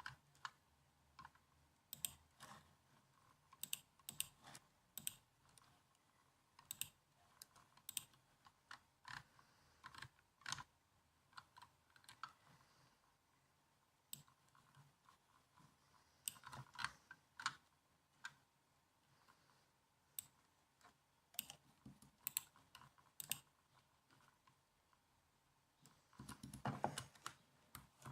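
Typing on a laptop keyboard: soft, irregular keystroke clicks in short runs with brief pauses, and a denser burst of keystrokes near the end.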